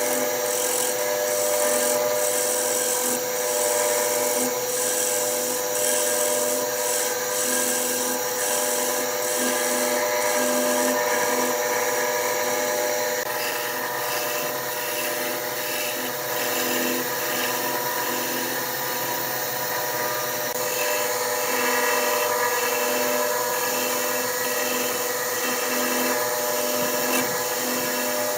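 Wood lathe running with a steady motor hum while a turning tool cuts the spinning wood.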